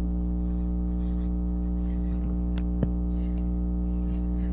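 Steady electrical mains hum, a constant low buzz with many overtones, with faint rustles and one light click about three seconds in.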